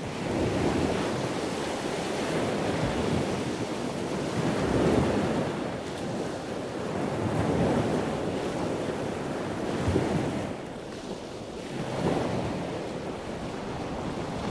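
Rushing water noise that swells and ebbs every few seconds, like surf.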